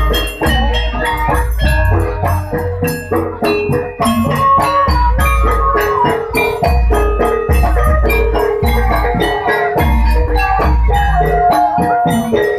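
Jaranan music: a Javanese gamelan-style ensemble of struck metallophones and drums playing a busy, steady rhythm, with deep low strokes every couple of seconds and a held melody line that bends slightly.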